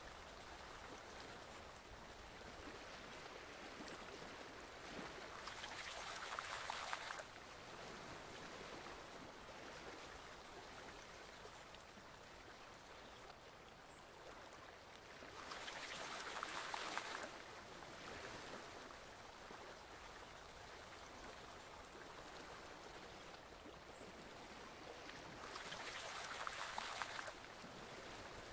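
Stream water flowing steadily. Three times, about ten seconds apart, it swells into a brighter splashing for about two seconds, and each swell cuts off suddenly.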